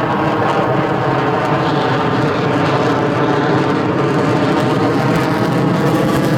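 Aircraft engine running steadily with an unchanging droning pitch.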